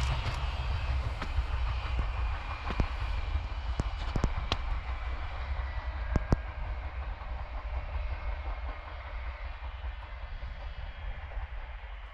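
Train running along the line, its rumble fading steadily as it moves away, with a few sharp clicks along the way.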